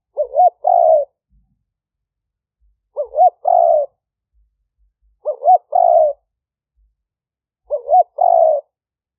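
Spotted dove cooing: a quick rising double note followed by a longer coo, repeated four times about every two and a half seconds.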